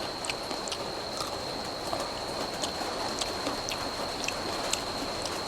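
Rain falling, a steady hiss with scattered drops ticking irregularly, over a thin steady high whine.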